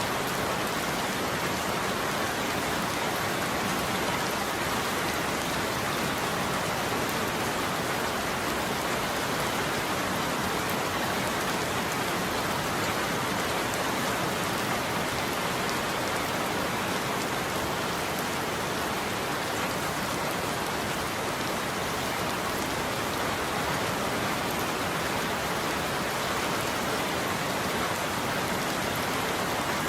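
Steady rain falling on a roof, an even dense patter without a break.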